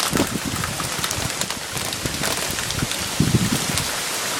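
Heavy rain falling in a steady hiss, with wind gusts buffeting the microphone at the start and again about three seconds in.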